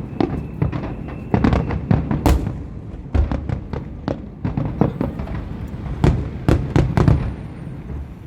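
Aerial fireworks bursting overhead: many bangs in quick, irregular succession, each with a deep boom.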